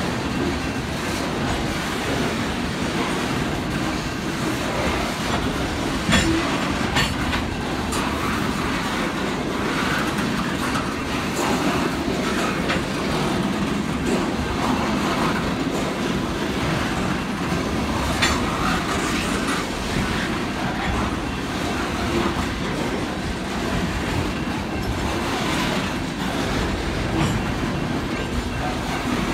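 Coal hopper cars of a freight train rolling past steadily: continuous rumble of steel wheels on the rails, with clickety-clack over the rail joints and scattered sharp clanks, the loudest about six seconds in.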